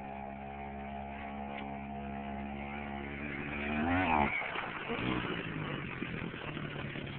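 Pit bike engine running at a steady speed, then revving up quickly about four seconds in and dropping off abruptly. It then runs rougher and lower toward the end.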